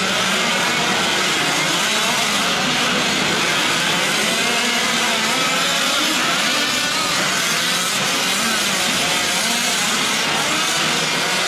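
Several 1/5-scale gas RC trucks' small two-stroke engines racing together, their overlapping buzzing pitches rising and falling as they rev up and back off.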